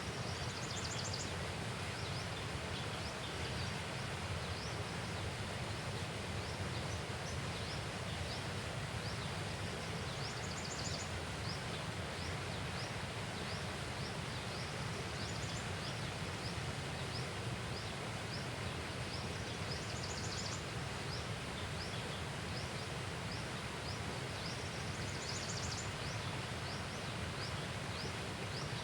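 Outdoor riverside ambience: a steady low rumbling hiss, with many short high chirps from small animals throughout and a brief higher trill every few seconds.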